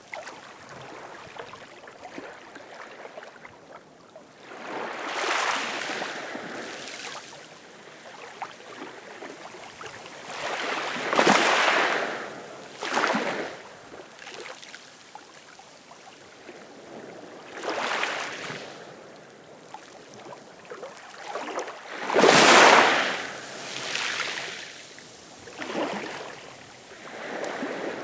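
Ocean waves breaking and washing ashore in irregular surges every few seconds, each swelling and then fading into a low hiss; the loudest wave comes about three-quarters of the way through.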